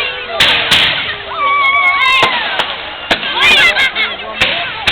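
Fireworks going off in a public display: a string of sharp bangs and cracks at irregular intervals, with crowd voices calling out between them.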